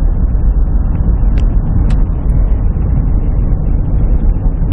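Steady low rumble inside an airliner cabin, the engines and airframe heard from a passenger seat, with a couple of faint clicks about a second and a half in.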